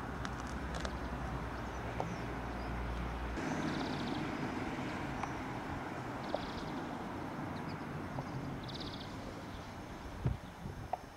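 Town street ambience: a low steady rumble that stops abruptly a few seconds in, with small birds giving three or four short high chirps.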